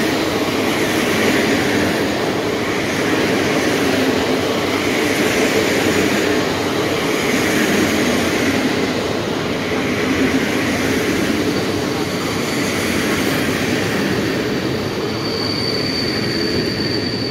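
Passenger coaches of a train rolling past close by: a loud, steady rumble and rush of steel wheels on rail, swelling and easing every couple of seconds. A thin, high squeal sets in near the end.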